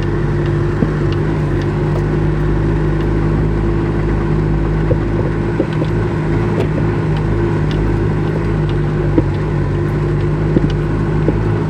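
1995 Toyota Hilux's engine running at a steady, unchanging pitch, with a few faint clicks and rattles over it.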